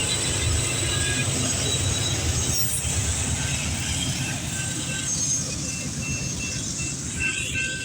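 Canadian Pacific oil train of tank cars rolling past, a steady low rumble of wheels on rail. From about five seconds in, a faint high tone repeats at an even pace.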